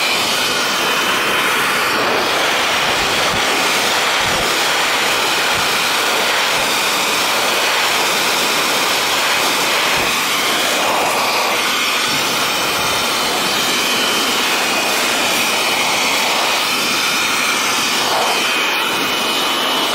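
Cyclone handheld electric motorcycle dryer running steadily: a loud, even rush of blown air with a high whine over it, blowing water off a freshly washed motorcycle.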